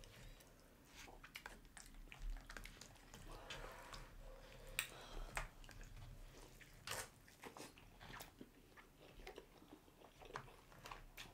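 Close-miked chewing and biting of birria tacos, quiet, with many short sharp mouth clicks scattered through.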